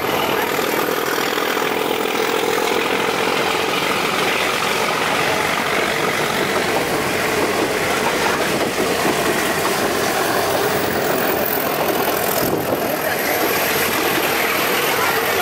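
Steady running noise of a moving toy train heard from inside the carriage at the open window: the rumble of the wheels on the rails and the rush of the coach, dipping briefly about twelve seconds in.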